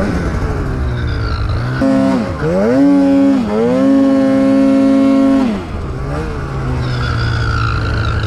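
Snowmobile engine idling at low revs, then revved hard about two seconds in, dipping briefly, revving up again and held high for nearly two seconds before the throttle is let off.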